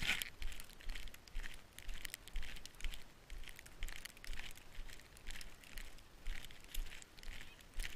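Footsteps crunching through deep snow, about two steps a second in an even walking rhythm.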